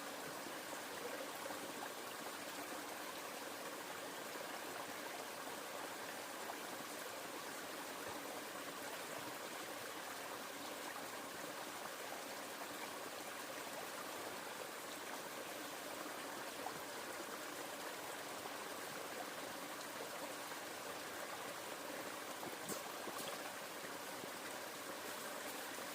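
Steady rush and trickle of flowing river water, with a couple of faint clicks near the end.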